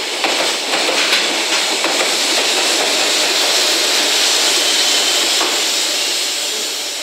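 A freight train rolling past close by: the last container wagons clack over the rail joints a few times, then the rear JR Freight EF210 electric banking locomotive passes with a loud, steady rushing noise, which fades near the end as it moves away.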